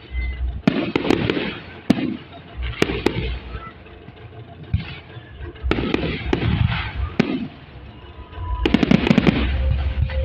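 Fireworks salute going off: a series of sharp bangs, each trailing into a rumbling echo, with a dense run of rapid crackling reports about nine seconds in.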